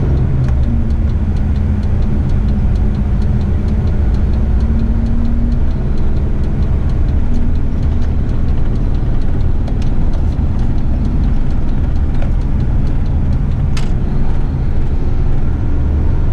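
Eight-wheeler twin-steer rubbish truck's diesel engine and road noise heard from inside the cab while driving, a steady low drone with a faint hum-tone over it during the first few seconds.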